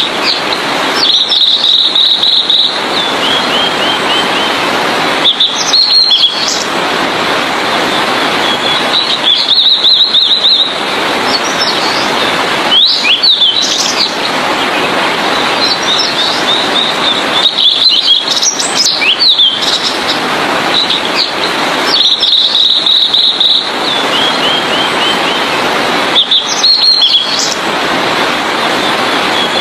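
Blue-and-white flycatcher singing: high, clear song phrases repeated every few seconds, some ending in a short run of falling notes, over a steady rushing background noise.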